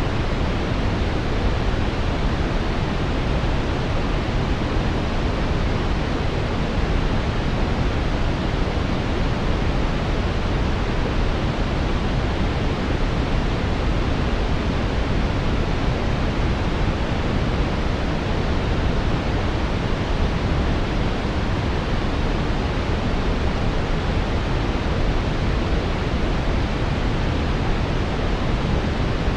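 Synthetic brown noise: a steady, deep hiss strongest in the bass and fading toward the treble, with no changes.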